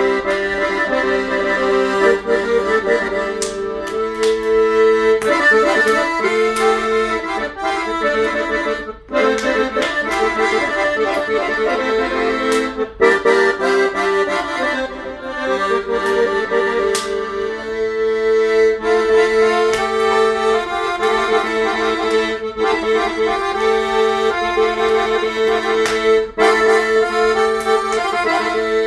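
Accordion playing a traditional-style tune: a melody of quick changing notes over a steady held bass note, with brief pauses about nine and thirteen seconds in.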